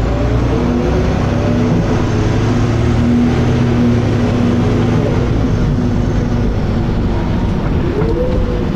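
Dennis Arrow double-decker bus under way, its engine and driveline giving a steady drone with whining tones; about eight seconds in, one whine rises and then settles again.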